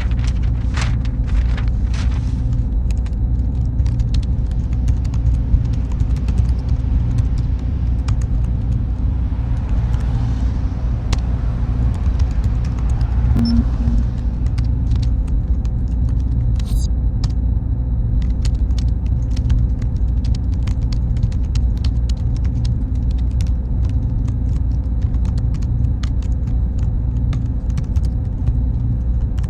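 Server-room ambience: a steady low hum of cooling fans and machines, with a faint steady mid tone and scattered light clicks. A faint high-pitched whine joins about halfway through.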